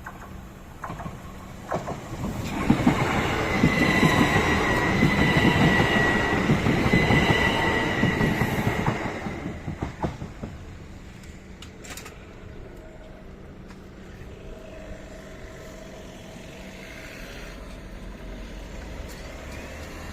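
Electric multiple-unit train passing over the level crossing: a loud rush of wheel and rail noise with a steady high whine, building about two seconds in and lasting some seven seconds before fading away.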